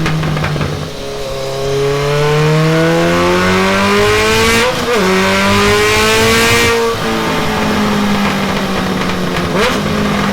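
Kawasaki ZRX inline-four engine breathing through a Delkevic 14-inch oval carbon fibre muffler, loud, revving up as the bike accelerates. Its pitch climbs for about four seconds, drops briefly in a gear change about five seconds in, then holds fairly steady, with another short blip near the end.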